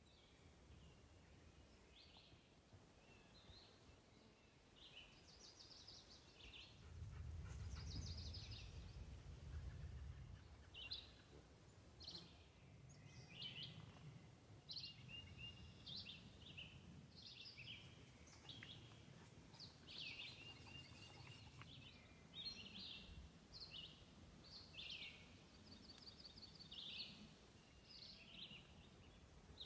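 Faint songbirds singing: short chirps and rapid trills repeating throughout. A low rumble swells for a few seconds about seven seconds in.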